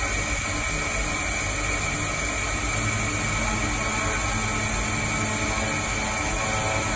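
CNC machine running in a machine shop: a steady mechanical noise with a few faint held tones.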